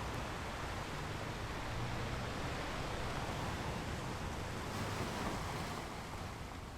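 Ocean waves breaking and washing on a shore, a steady hiss of surf that swells and then eases off near the end.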